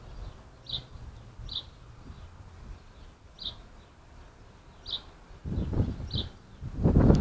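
A bird giving a short, high chirp, repeated every second or two. Near the end come two bursts of low noise, like wind on the microphone.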